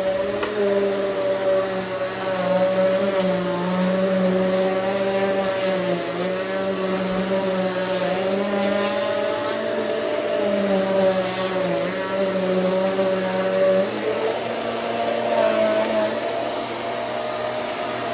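Hoover Swivel XL Pet upright vacuum cleaner running steadily while being pushed over the floor, its motor hum wavering slightly in pitch. Its sound changes near the end, with a brief hiss.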